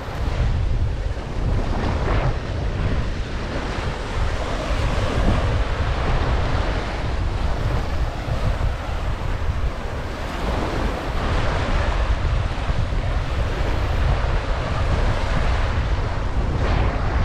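Ocean surf washing onto a sandy beach, with wind buffeting the microphone as a steady low rumble.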